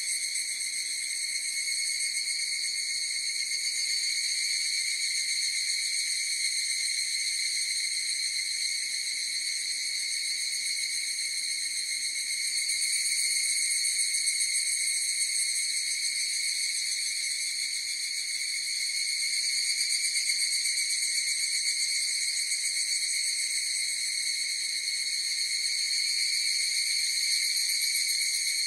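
A chorus of higurashi (evening cicadas, Tanna japonensis) calling: a continuous high ringing drone that slowly swells and fades in loudness.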